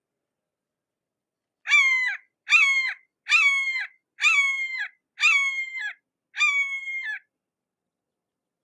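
Red-shouldered hawk giving six kee-aah calls in a row, about one a second, each dropping in pitch at the end.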